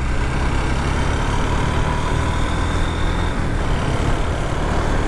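Motorcycle riding along a highway: steady wind rush on the camera's microphone over the low, even running of the engine and road noise.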